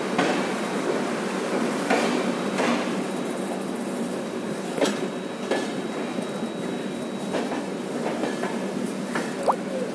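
A passenger train coach rolling slowly as it departs, heard from its open doorway: a steady rumble of wheels on rail broken by about seven irregular sharp clunks, with a brief rising squeal near the end.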